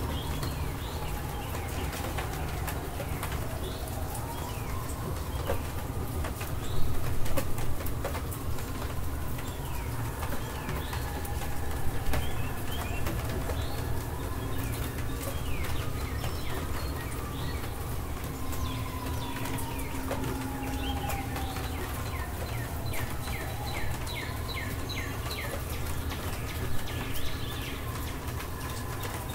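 Birds chirping again and again, short quick calls over a steady low rumble, with a faint whistling tone that slowly rises and falls every few seconds.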